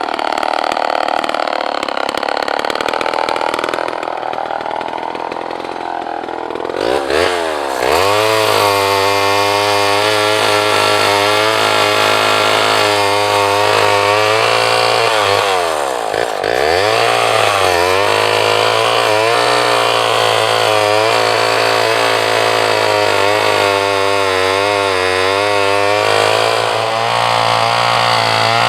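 Two-stroke chainsaw running at high revs while cutting wood, its engine pitch sagging and wavering under the load. Twice, about a quarter and then halfway through, the revs drop sharply and climb back.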